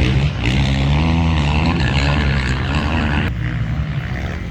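Motocross bike engine revving, its pitch rising and falling with the throttle, then dropping off abruptly about three seconds in.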